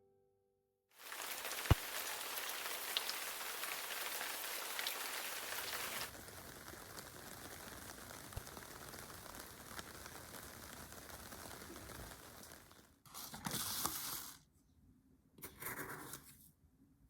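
Steady rain falling, louder for the first few seconds and then softer, followed near the end by two short rustles.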